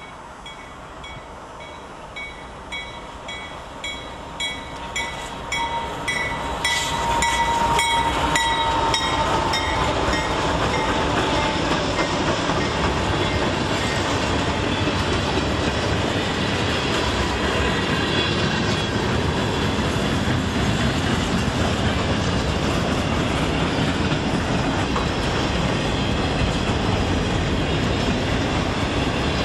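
Freight train approaching and passing close by: a bell rings in strokes about twice a second, each louder as the locomotives near. The locomotives go by about eight seconds in, followed by the steady clatter of freight cars rolling past on the rails.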